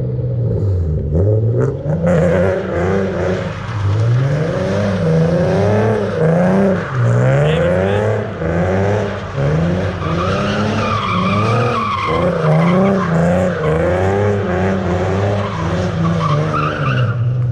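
A car being driven hard in a slide: the engine revs up and down again and again, and from about two seconds in the tyres squeal against the pavement.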